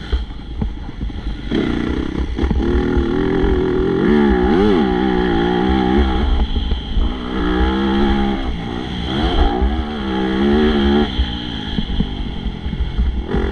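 Motocross bike engine running hard, its pitch rising and falling again and again as the throttle opens and closes and the bike shifts gears, with a steady low rumble underneath.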